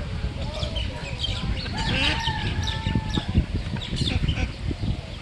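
Birds calling: a drawn-out fowl-like call about two seconds in, amid many short high chirps from smaller birds, over a low rumble.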